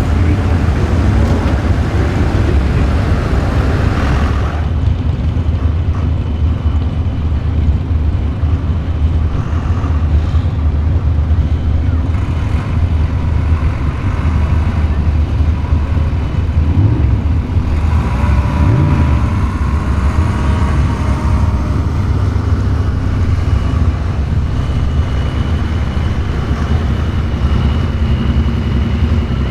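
Farm tractor engine running steadily at a tractor pull, with a couple of brief revs a little past the middle.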